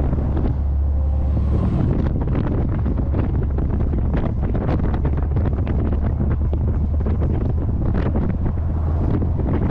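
Heavy wind buffeting on the microphone of a moving C3 Corvette, over a steady low drone from the car's small-block 350 V8 and the road.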